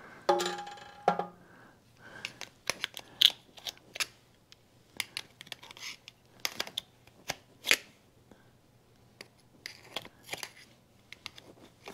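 Hand tools working on the aluminium tail end of a Mag-Lite flashlight: a run of short, sharp metallic clicks, taps and scrapes at irregular intervals, with a brief steady pitched sound about a quarter second in.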